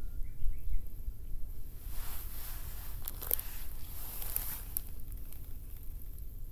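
Rustling, handling noise with a few sharp clicks over a steady low rumble, with a few faint short chirps about half a second in.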